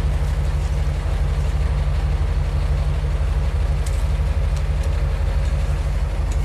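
Modified 4x4 truck's engine running steadily at low revs.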